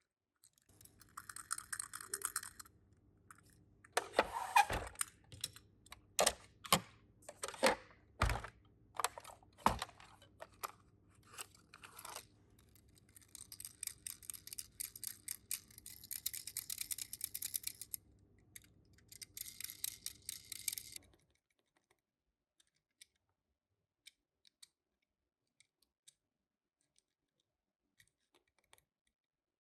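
Handling of Tomica die-cast minicars and their packaging: a run of sharp clicks and small knocks, with bursts of rustling and scraping. For the last eight seconds there are only a few faint ticks.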